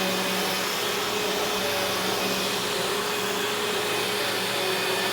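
Eureka Boss Victory upright vacuum cleaner running steadily while being pushed over carpet: an even motor drone with a low hum, no change in pitch or level.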